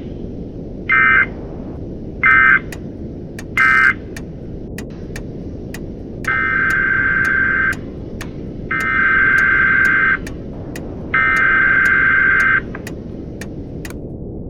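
Emergency Alert System SAME data bursts on a weather radio broadcast: three short screeching bursts about a second apart, then three longer ones of about a second and a half each. They are the end-of-message codes closing the tornado warning, then the digital header starting its repeat. Steady radio hiss with scattered clicks lies underneath.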